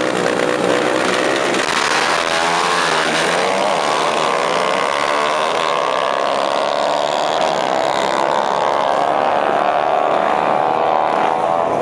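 Racing motorcycle engine running hard at high revs, its pitch climbing slowly over several seconds, as in a drag-strip run.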